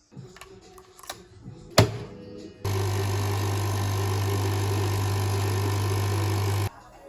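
Coffee machine's pump buzzing steadily for about four seconds, then cutting off suddenly, after a single sharp click.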